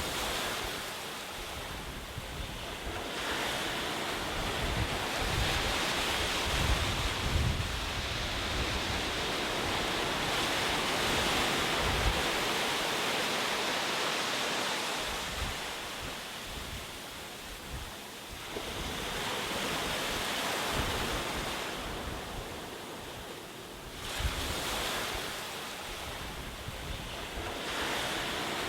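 Ocean surf washing on a shore, the hiss of the waves surging and fading every several seconds, with wind rumbling on the microphone.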